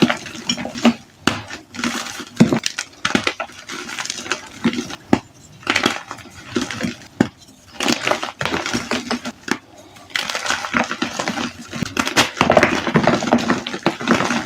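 Reformed powdery white gym chalk being crushed, with irregular crunching and crumbling and short quieter lulls between bouts.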